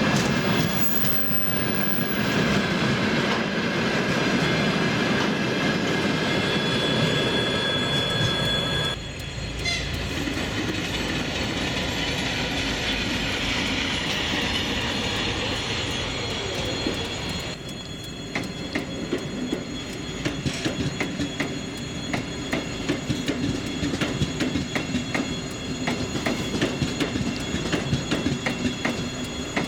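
Freight train of tank wagons rolling past, its wheels rumbling with a thin steady squeal. After a cut, a two-section electric locomotive runs by on a far track. Near the end a Sapsan high-speed electric train passes with a quick, regular run of wheel clicks over the rail joints.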